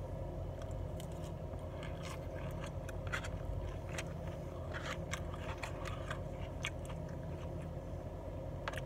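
Close-up chewing of a crunchy cabbage and red onion salad: irregular crisp crunches throughout, over a steady low hum.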